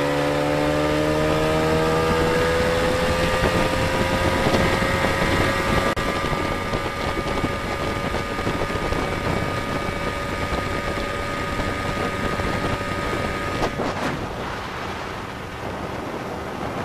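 A skiff's motor running steadily under way, with wind buffeting the microphone. The engine note drops back about fourteen seconds in.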